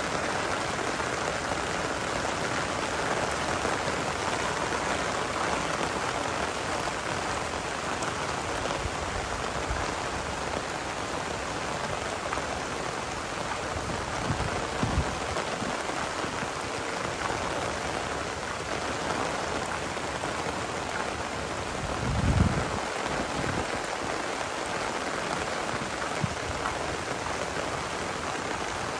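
Steady rain falling, an even hiss throughout. A couple of short low thumps break through about halfway, and a louder one about three-quarters of the way in.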